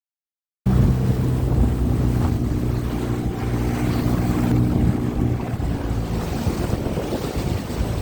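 A boat's motor running steadily, with wind buffeting the microphone; the sound cuts in abruptly just under a second in.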